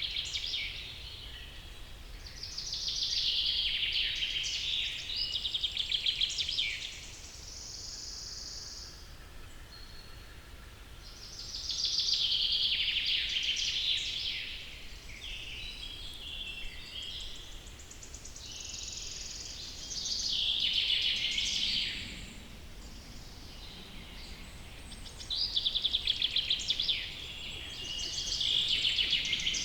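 Songbird singing: high, rapidly warbled song phrases of a few seconds each, repeated with pauses of several seconds between them, over a faint steady background hiss.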